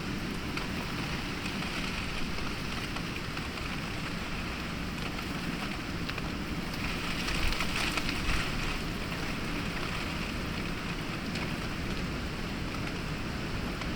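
Heavy rain falling steadily in a storm, with scattered drips and splashes, recorded binaurally; a gust makes the rain swell louder about halfway through before settling again.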